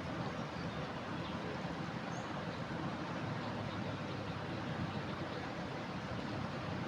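Steady rush of a flooding river, a low, even roar of fast water with no breaks.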